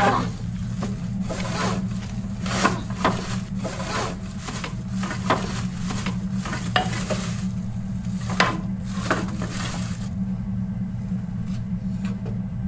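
Plastic sack rustling and crinkling in many short, irregular bursts as it is pushed and dragged through a small window opening, stopping about ten seconds in. A steady low hum runs underneath.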